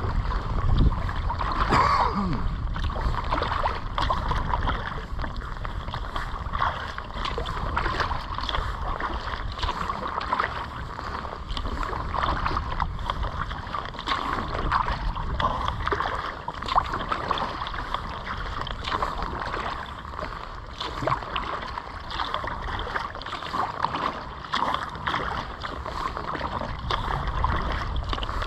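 Kayak paddle strokes: the blades dip and pull through lake water again and again, with splashing and water lapping at the hull.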